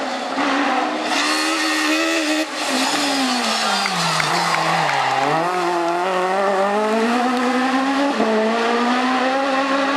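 Kit-car rally car engine at high revs. Its pitch drops for a couple of seconds as it comes off the throttle, then climbs again under acceleration, with a brief break near the end.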